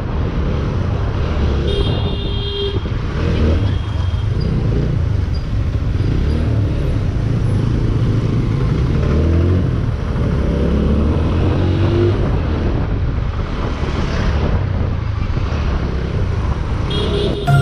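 Motorcycle ride: steady engine and road noise with heavy wind rumble on the microphone, among traffic. A short beep is heard about two seconds in.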